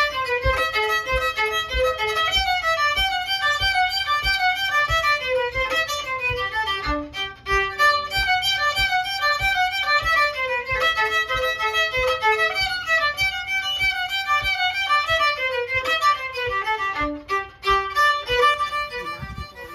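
Fiddle music: a quick, lively run of notes over a steady low beat.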